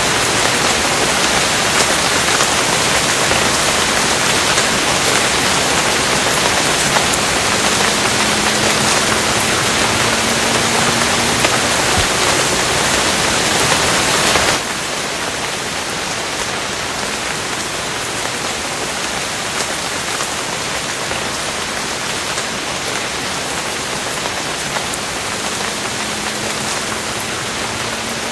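Steady rain falling, a dense even hiss with scattered drop ticks. About halfway through it suddenly becomes quieter and stays steady at the lower level.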